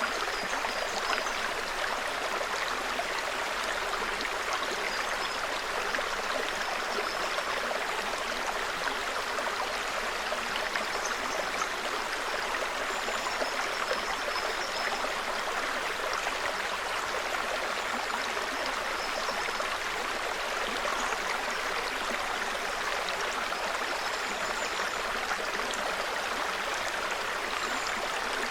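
Small forest brook babbling steadily over stones, with faint, short, high bird calls now and then.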